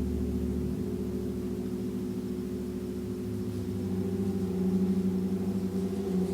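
A gong ringing with many overlapping sustained low tones and a wavering hum, kept sounding by a mallet; it swells about four seconds in.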